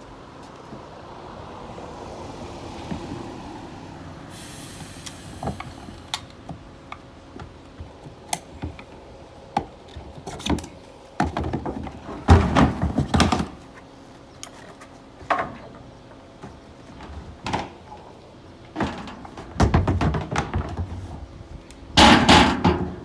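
Knocks, clunks and rattles of old plastic wheeled trash cans being handled as their wheels are taken off. Scattered single knocks give way to several louder rattling bursts in the second half.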